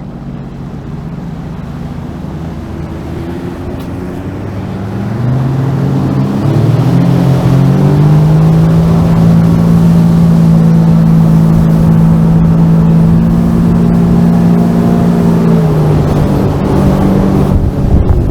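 Sea-Doo Fish Pro jet ski engine speeding up over a few seconds, holding a steady high pitch, then easing off about sixteen seconds in, with splashy wind and water noise near the end.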